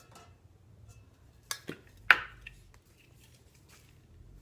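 A few sharp clicks and knocks of hard objects being handled, the loudest a single sharp click about two seconds in, as an aerosol hairspray can is picked up and readied.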